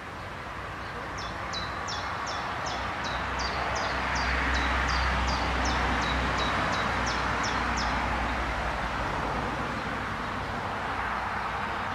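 A bird singing a long run of short, high, down-slurred notes, about three a second, that stops about eight seconds in, over a steady outdoor rush that swells in the middle.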